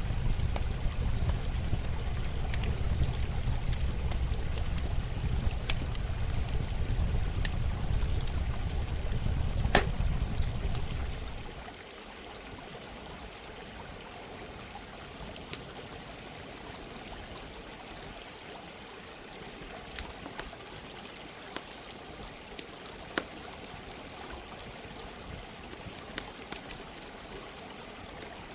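Running water flowing steadily, with the sharp pops and crackles of a campfire scattered through it. A heavy low rumble sits under the first eleven seconds or so and then cuts off.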